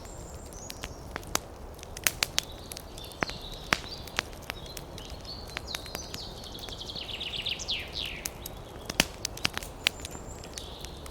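Wood fire crackling in a fireplace: irregular sharp pops and snaps over a low rumble, a few louder pops about two and nine seconds in. Thin high whistling tones come and go above it, with a quick run of falling chirps in the middle.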